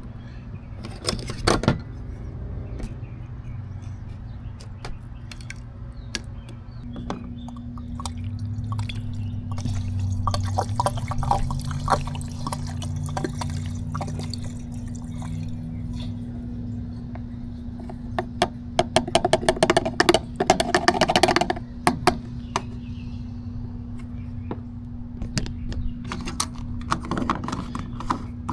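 Liquid fuel additive pouring and glugging out of its bottle into a fuel filler neck, with a steady low hum and a run of sharp clicks about two-thirds of the way through.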